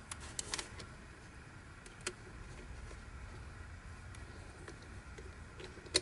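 Plastic pieces of the Yileng Fisher Wheel of Time twisty puzzle clicking and knocking as they are handled. A quick run of clicks comes near the start, a single click about two seconds in, and the loudest sharp click at the very end.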